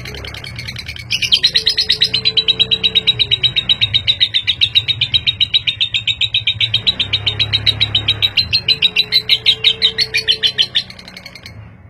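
Lovebird chattering in a long, rapid run of sharp, evenly spaced chirps (the 'ngekek' trill), starting about a second in and breaking off near the end. Faint backing music runs underneath.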